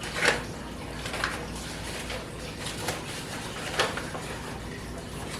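A few light taps and clicks of kitchen utensils and containers against a bowl while flour is added to chicken wings, scattered over a low steady hum.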